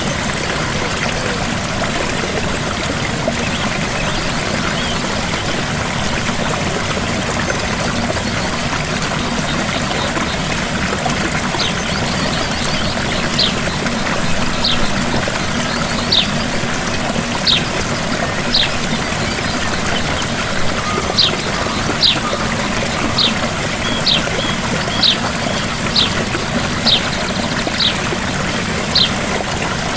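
Gentle waterfall, a steady rush of falling and splashing water. From about a third of the way in, short high falling chirps repeat roughly once a second over the water.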